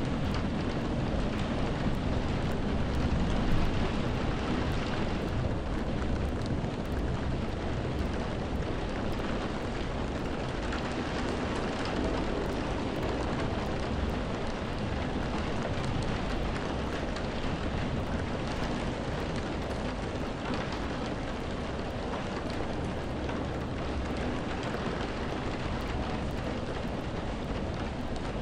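Steady rain, an even hiss of falling water with faint drop ticks, over a deep continuous low rumble.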